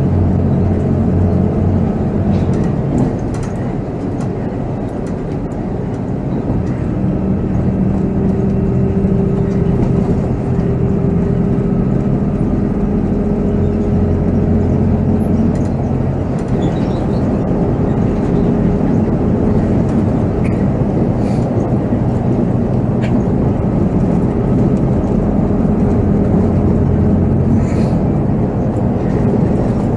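Volvo B7R coach's diesel engine running under way, its note drifting up and down with speed, over steady road and cabin noise, with a few short rattles or clicks.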